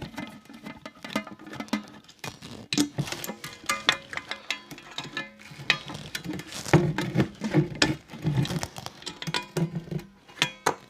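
Metal clicking and clinking of hand tools working nuts and bolts loose on a flat surface cleaner, irregular and frequent, with music playing underneath.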